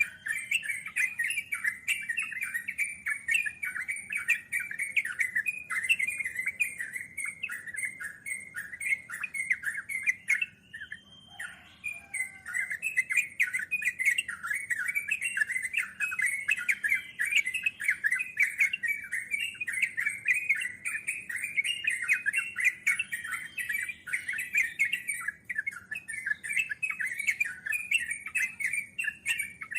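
Yellow-vented bulbul (trucukan) song: a long, fast, continuous chattering roll of notes (the 'ngeropel' style), with a brief break about 11 seconds in.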